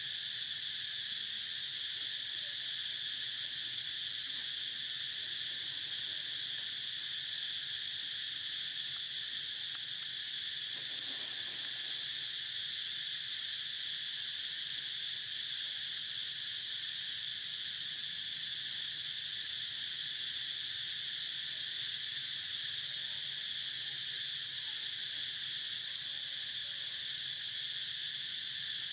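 A steady, unbroken, high-pitched insect chorus at an even level, with a faint brief lower sound about eleven seconds in.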